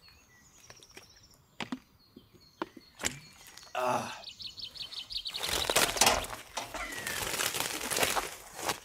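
Black plastic tape and sheeting crinkling and tearing as a man wrapped in it struggles free, loudest in the second half. A few sharp knocks and some bird chirps come before it.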